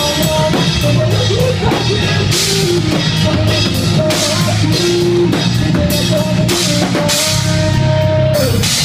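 Live rock band playing: drum kit with crashing cymbals, distorted guitar and bass, loud and continuous. A held melodic line, lead guitar or voice, runs over it.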